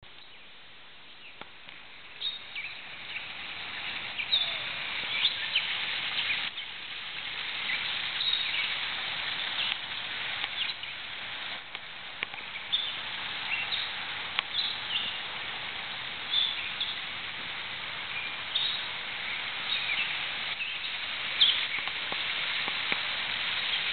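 Birds chirping repeatedly over a steady rushing hiss that builds over the first few seconds.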